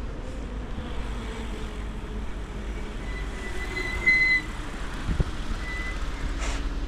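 Street traffic with a vehicle passing, its engine tone slowly falling, under a steady low rumble of wind on the microphone. A high electronic beep sounds about four seconds in, and a short knock comes a second later.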